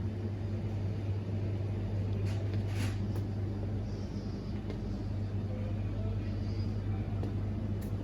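Steady low rumble and hum of a vehicle running, unchanging throughout.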